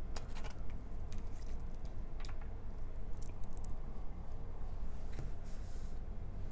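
Tarot cards being handled: light rustling and scattered soft clicks as cards are moved about, over a low steady hum.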